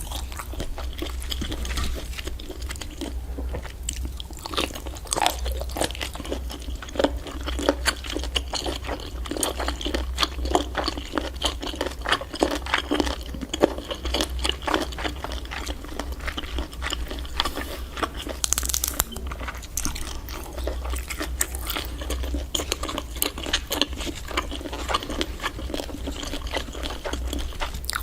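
Person chewing and biting giant octopus: a dense, continuous run of small crunching clicks.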